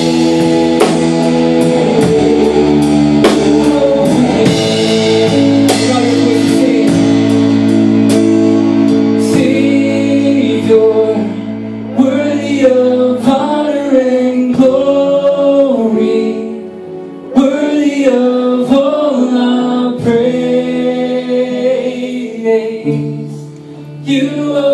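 Worship band music: guitar chords held under a steady beat, then a sung melody comes in about ten seconds in.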